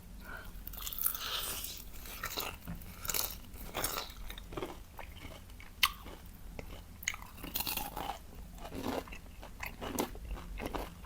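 Close-miked biting and chewing of crunchy fried chicken: irregular crisp crunches of the fried coating, one sharp crack about six seconds in.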